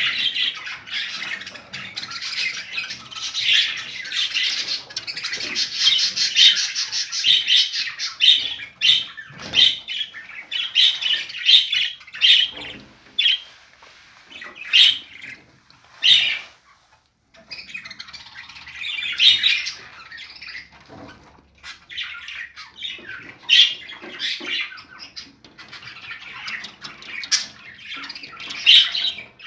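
A bird giving rapid, harsh squawking calls, broken by a few short pauses.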